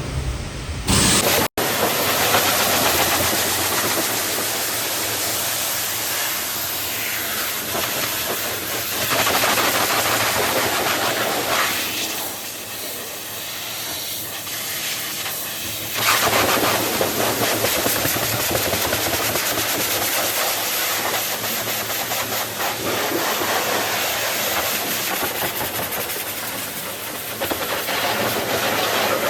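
Pressure washer spraying water onto a truck: a steady, loud hiss that grows and fades as the spray moves over the bodywork.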